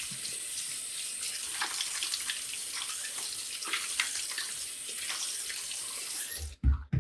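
Tap running into a sink, a steady splashing hiss, shut off about six and a half seconds in, followed by a couple of short low thumps.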